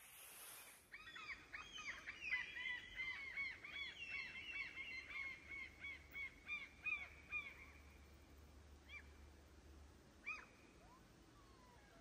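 Birds calling: a busy run of short, high, repeated calls overlapping for several seconds, thinning out to a few single calls near the end.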